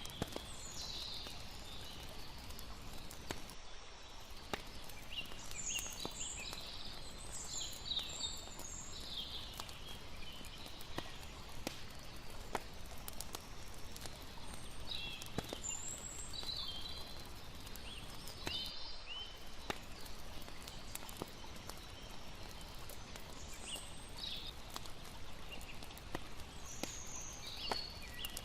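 Layered campsite night ambience: a campfire crackling with sharp pops over a steady rush of water, with scattered high chirping calls.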